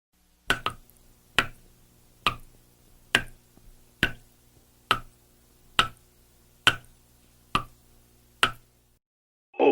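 A steady series of ten sharp clicks, a little under one a second, over a faint hum. The first click is doubled.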